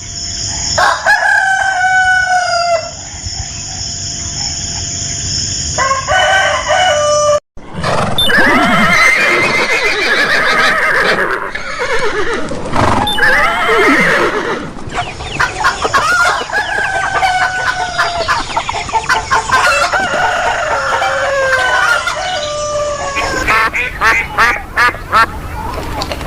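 Chickens and a rooster calling: repeated clucking and crowing. There is an abrupt break about seven seconds in, and a run of quick short calls near the end.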